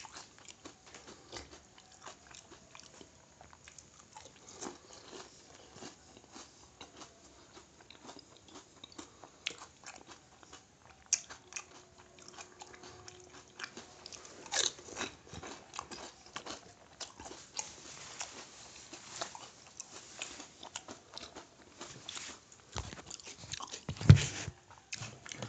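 Crisp, hollow pani puri shells crunching and being chewed, in many small irregular crackles with wet chewing between them. One louder, deep thump near the end.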